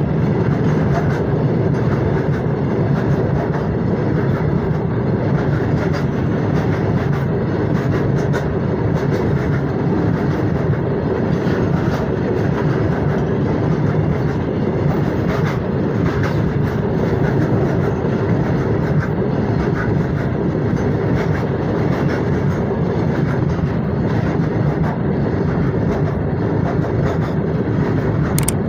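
Freight train of steel wagons rolling past close by: a steady rumble of wheels on rails, with light rattling clicks throughout and one sharper click near the end.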